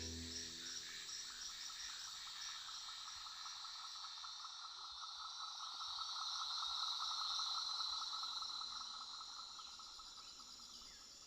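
Rainforest insect chorus: a rapid pulsing trill with higher repeated chirps over it, swelling louder around the middle and fading toward the end.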